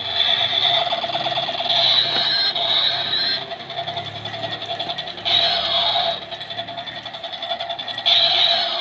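Battery-powered toy Apache attack helicopter playing its electronic sound effects: a steady, rapidly pulsing buzz, with a falling whistle about five seconds in and another near the end.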